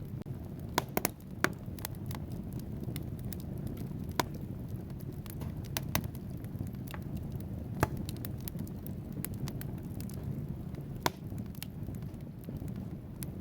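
Wood fire burning in a fireplace: a steady low rumble of flames with logs crackling and popping at irregular intervals, a few sharp pops standing out.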